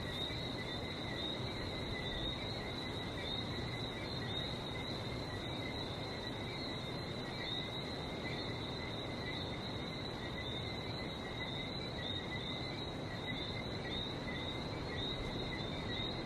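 A dense night chorus of Johnstone's whistling frogs, many overlapping short chirps piling into a continuous high two-band whistle, over a steady low rush of the sea.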